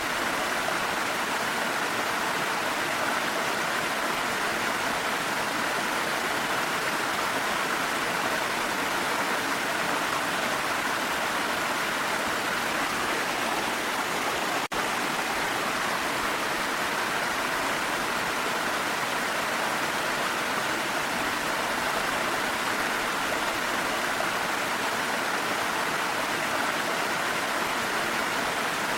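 Waterfall with a steady rush of falling and flowing water. There is a momentary dip in level about halfway through.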